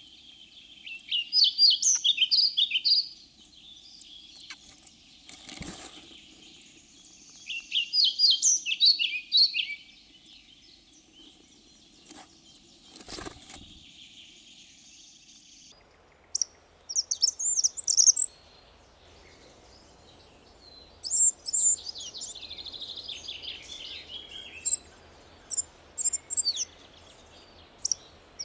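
A European pied flycatcher sings two short, quick warbled phrases, with two sharp knocks between them. From about 16 s in, a spotted flycatcher gives short, very high, thin squeaky phrases several times.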